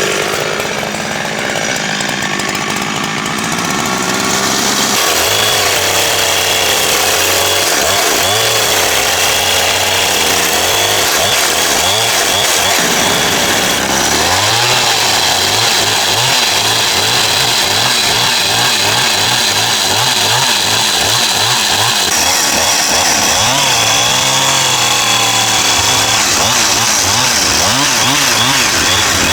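Chainsaw running continuously while cutting timber, its engine note shifting a couple of times as the load changes.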